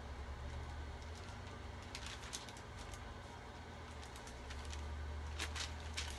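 Soft, scattered crackles of thin Bible pages being turned, in two clusters about two seconds in and again past five seconds. A steady low hum runs underneath.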